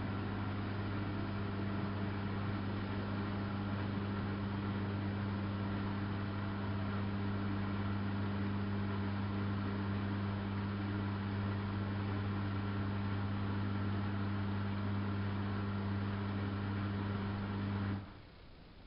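Samsung WF71284 washing machine running with a steady electric hum, which cuts off abruptly near the end.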